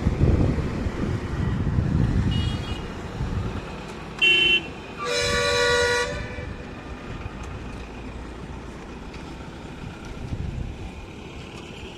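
Vehicle horn honking: a short beep a little past four seconds in, then a longer honk of about a second, over the low rumble of passing road traffic.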